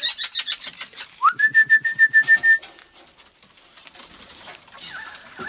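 A whistle that rises and then holds one steady high note for about a second and a half, pulsing in quick even beats. Quick clicks and rasping come before it, in the first second.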